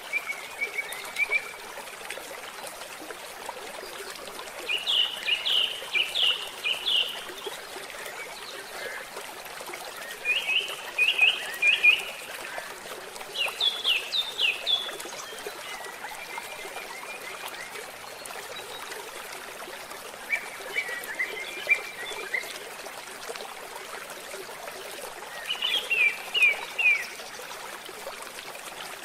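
A songbird singing short phrases of quick repeated notes, one phrase every few seconds, over a steady background hiss.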